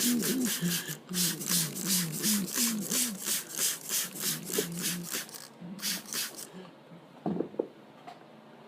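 Ryko Soft Gloss car wash's spinning cloth brushes swishing against a car, about four swishes a second over a varying motor hum. The swishing stops about five and a half seconds in, returns briefly, then ends, leaving a few light knocks.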